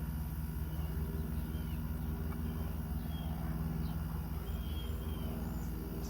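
Steady low mechanical hum, with a few faint bird chirps now and then.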